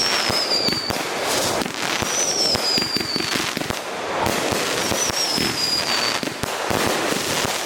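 Consumer fireworks going off in a dense run of crackling pops, with a high whistle sliding down in pitch about every two to three seconds.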